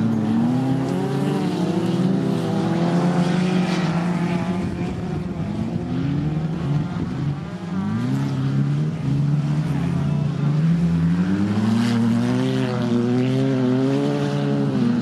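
Several banger racing cars' engines running hard around an oval track, their pitch rising and falling as the cars accelerate and lift off.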